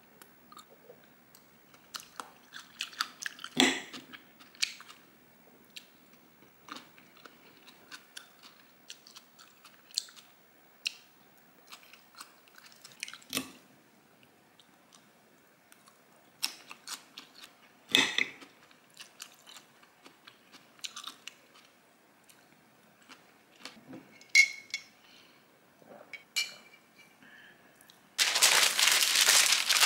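Close-up eating sounds: crunching and chewing a cold pasta salad of fusilli and shredded raw cabbage, with sharp clicks of a metal fork on the plate. A loud, dense rustling starts near the end.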